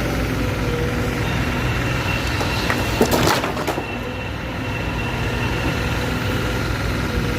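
Heavy demolition machine's engine running steadily, with a brief crunching, splintering crash of breaking material about three seconds in.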